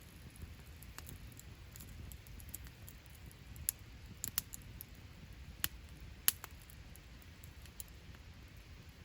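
Wood campfire crackling: scattered sharp pops and snaps over a low, steady rumble of the burning fire, the loudest pop a little past six seconds in.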